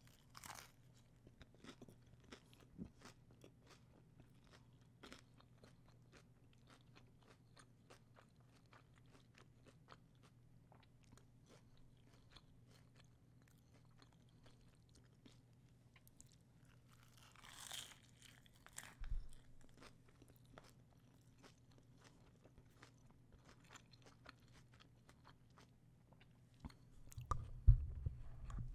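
Close-miked chewing of a crunchy hard-shell taco: a steady run of small crisp crunches, with one louder crunch a little past halfway. A few low thumps near the end.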